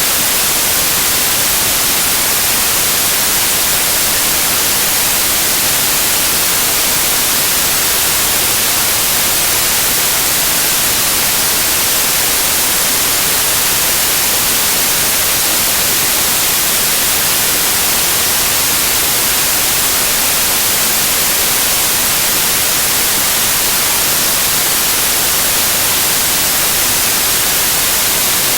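Loud, steady white noise: an even hiss with no change or pattern, strongest in the high frequencies.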